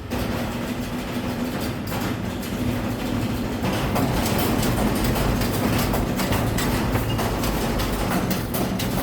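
A steady mechanical hum and low rumble, with frequent short clicks and clatter, getting a little louder about four seconds in.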